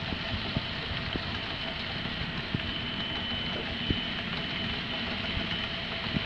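Model train running on the layout: a steady rumble from the running train, with a few light clicks scattered through it.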